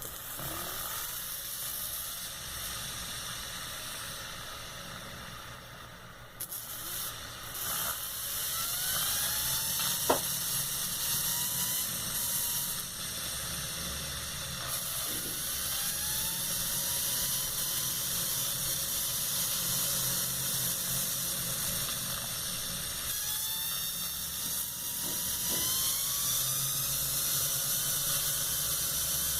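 Electric drill armature spinning on a 12 V supply against a loudspeaker magnet, its brushes hissing with a high, drill-like whine. The whine rises in pitch several times as the armature speeds up, with one sharp click about ten seconds in.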